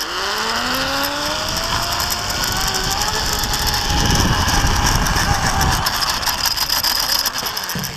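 Zip-line trolley pulleys running along a steel cable: a whine that rises in pitch over the first few seconds as the rider picks up speed, then holds steady under a loud rush of air.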